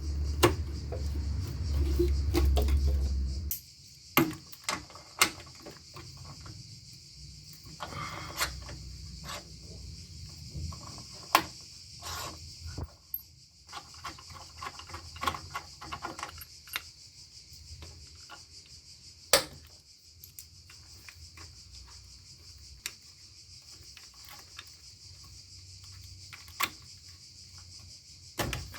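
Scattered clicks and knocks of hand tools and plastic fittings as a car's radiator fan cover, wiring harness and fan shroud mount are undone, over a steady high hiss. A low rumble fills the first few seconds, then stops abruptly.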